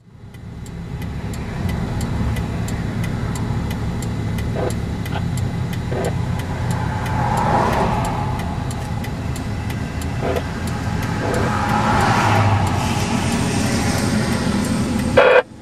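Car driving, a steady engine and road rumble heard from inside the cabin, with faint ticking repeating about three times a second. A short loud burst comes near the end.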